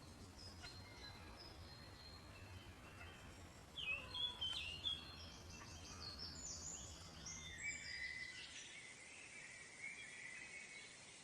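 Several songbirds chirping and calling in a forest, with a cluster of quick chirps about four seconds in and a longer warbled phrase near the end, over a low steady background rumble that drops away about eight seconds in.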